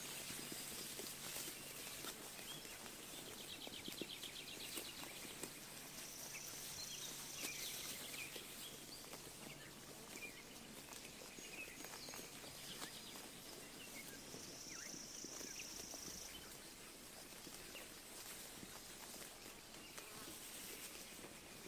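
Sheep grazing at close range, many small irregular clicks and tears of grass being bitten off and chewed. Small birds call over it: a short trill about two seconds in and a few high thin notes later.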